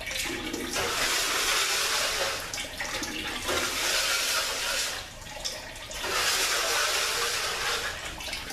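Hissing spray in repeated long bursts of about two to three seconds each, with short breaks between them.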